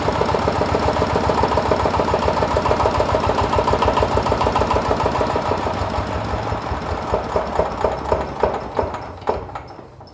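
Mitsubishi 90 diesel engine running with a fast, even firing beat, then slowing from about six seconds in, the beats spacing out until it coasts to a stop near the end, as when it is shut down.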